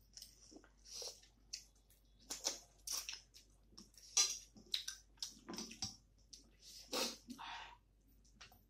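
Mouth sounds of eating rice and chicken curry by hand: irregular wet smacks and clicks of lips and mouth as the food is chewed.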